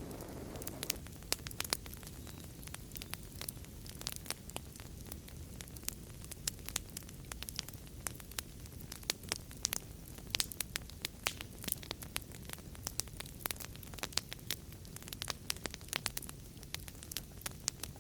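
Wood fire in a fireplace crackling, with many sharp irregular pops and snaps over a steady low rumble of burning.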